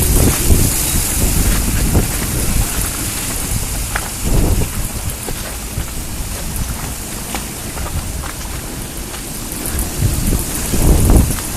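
Storm wind gusting hard across an anchored sailboat and buffeting the microphone, over a steady hiss. Heavy rumbling gusts swell at the start, about four seconds in and near the end.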